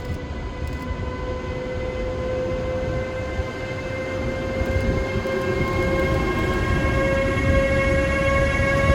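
A train approaching through a station: a locomotive's steady whine, slowly rising in pitch, over the rumble of the train, growing louder throughout.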